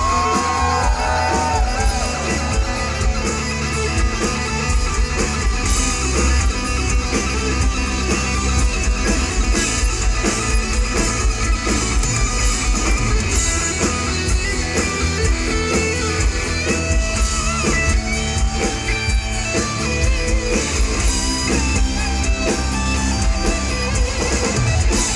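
Live heavy metal band playing an instrumental passage, electric guitars to the fore over bass and drums, with bending melodic guitar lines.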